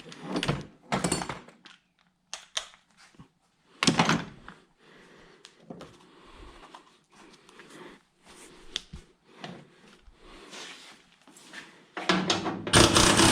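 Scattered metallic clanks, clicks and knocks of tools and parts being handled while working on car suspension, with a sharp loud knock about four seconds in and a louder burst of noise near the end.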